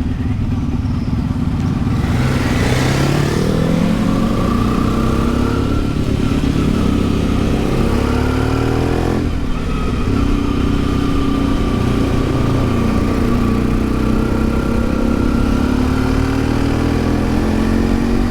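A 1992 Yamaha XTZ 750 Super Ténéré's parallel-twin engine under way, rising in pitch as it accelerates. The sound drops out briefly about nine seconds in and comes back at a lower pitch, an upshift, then climbs again.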